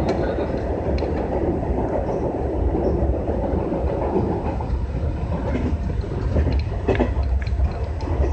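JR West 201 series electric train running at speed, heard from inside the driver's cab: a steady low rumble of wheels on rail, with a few sharp clicks of the wheels over rail joints.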